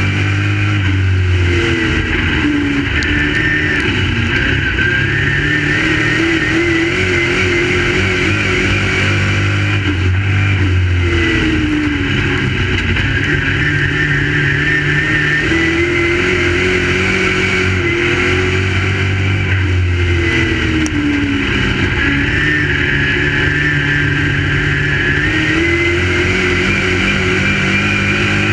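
Crate late model dirt-track race cars running laps. Their engines rise and fall in pitch over and over, roughly every eight or nine seconds, as the cars circle the track.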